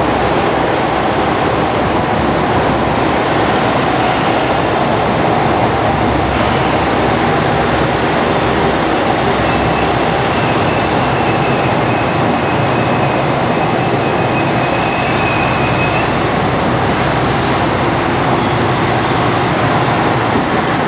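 JR Shikoku Nanpu limited express diesel train pulling slowly along a platform and braking to a stop: a steady rumble of engines and wheels. Brake squeal shows as thin whines for several seconds in the middle, and there is a short hiss about halfway.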